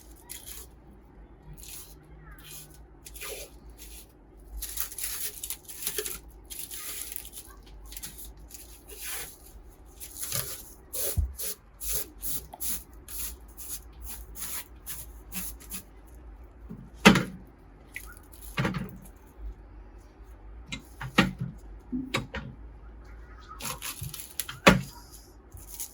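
Hands-on cleaning of a vintage slicer's metal parts: a run of short hissing, rubbing and spraying bursts, then several sharp knocks of the metal parts being handled in the second half.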